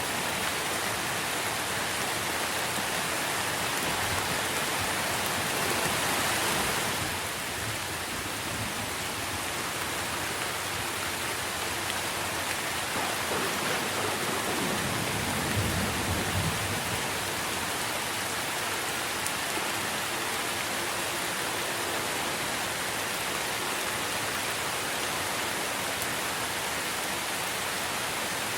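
Steady rain falling on trees, a continuous hiss of drops on leaves. A brief low rumble comes about halfway through.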